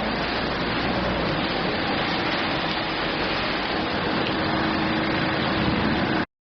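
Steady rain falling, an even dense hiss that cuts off abruptly into silence near the end.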